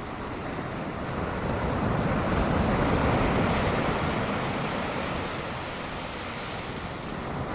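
Ocean surf breaking and washing on a beach, swelling louder about two to four seconds in and then easing off.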